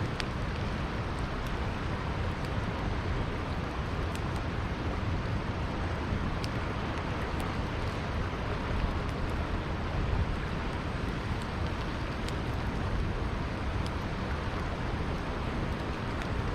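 Steady rushing of flowing river water, with sparse sharp crackles and pops from a burning wood campfire.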